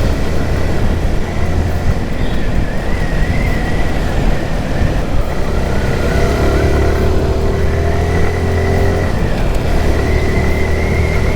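Motorcycle riding in traffic: the engine running under way over a heavy, steady rush of wind and road noise, its pitch gliding up and down between about six and nine seconds in.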